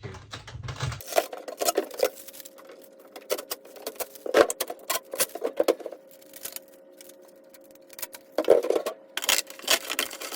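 Hands handling small plastic fridge accessories and packaging: clusters of clicks, taps and rustling, over a faint steady hum.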